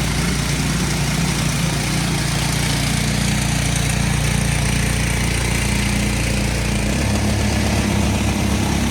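Gas-engine pressure washer running steadily under load, with the hiss of the high-pressure water spray; the engine note shifts about seven seconds in.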